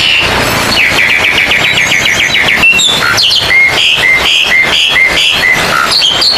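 Oriental magpie-robin (kacer) singing loudly: a fast run of clipped chirps about eight a second, then a string of short whistled notes repeated about twice a second.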